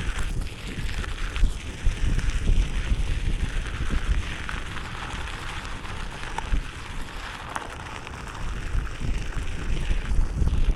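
Wind buffeting the microphone of a moving Onewheel rider, a gusty low rumble with a steady hiss underneath.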